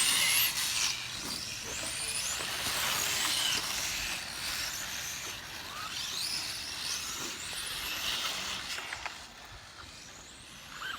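1/10-scale RC touring cars racing, their motors giving a high whine that rises and falls again and again as they accelerate and brake, over a hiss of tyre noise; the sound is loudest at first and fades near the end.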